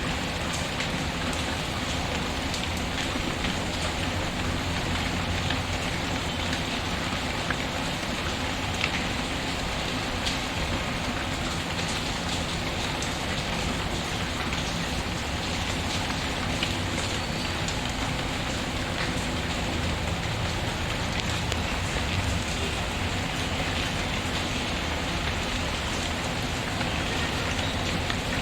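Steady rain falling, mixed with the faint scattered crackle of a wood fire in a fireplace.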